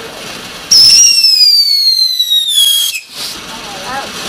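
A whistling firework going off: one loud, high whistle that starts suddenly under a second in, falls slowly in pitch for about two seconds, then cuts off sharply.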